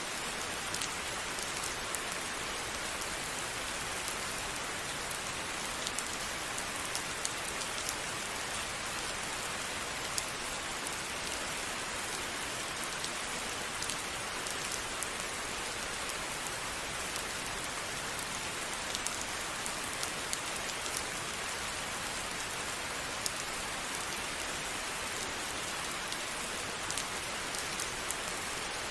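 Steady rain falling, an even hiss with many sharp individual drops ticking on a surface.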